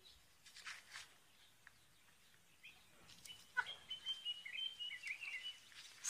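Faint bird chirping and thin, high twittering that begins about halfway through, after a quiet start.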